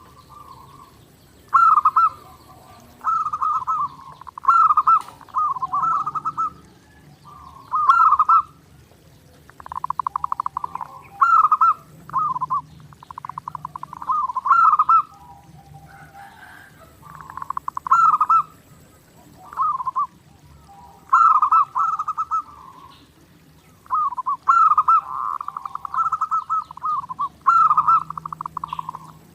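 Zebra doves (perkutut) cooing nonstop: phrases of quick staccato coos, one every second or two with short pauses between them, some rolling into a fast trill.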